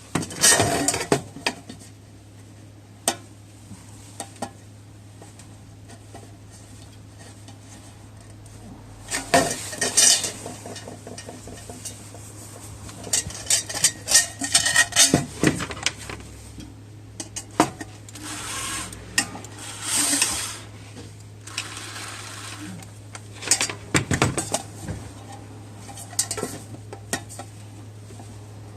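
Thin metal pieces clinking and clattering as they are handled, in irregular clusters of knocks and short scrapes, over a steady low hum.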